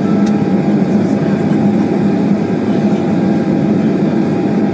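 Steady hum of an airliner's jet engines and cabin air, heard inside the passenger cabin while the plane waits on the ground before takeoff.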